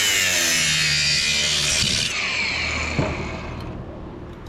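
A power tool cutting into an electric motor's metal casing: a loud hiss over a motor tone whose pitch falls. About two seconds in, the cutting noise stops sharply and the tool winds down.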